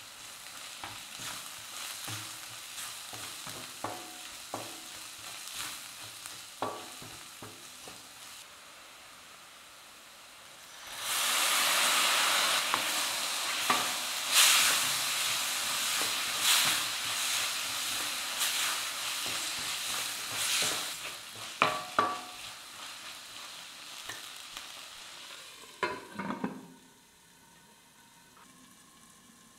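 Food frying in a pan while being stirred, the spoon clicking and scraping against the pan over a steady sizzle. About ten seconds in the sizzling suddenly grows much louder and stays loud for roughly ten seconds, then eases. A few sharp knocks of the spoon on the pan come near the end, after which the sound drops away.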